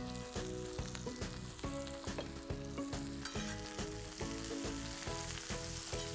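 Sliced onions and cumin seeds sizzling in hot oil on an iron dosa griddle, stirred and scraped with a metal spatula. The sizzle grows stronger about halfway through.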